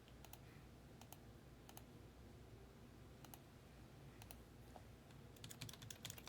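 Computer keyboard typing, faint: a few scattered keystrokes, then a quick run of keystrokes near the end.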